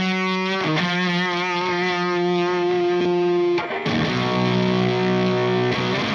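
Electric guitar played through a Valco Bloodbuzz drive/fuzz pedal, giving a distorted tone: sustained notes and chords that ring out, break off briefly about halfway through, then a new chord rings.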